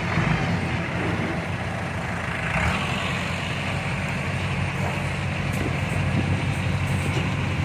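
Heavy diesel earthmoving engine running steadily at an even pitch, with no revving or change in load.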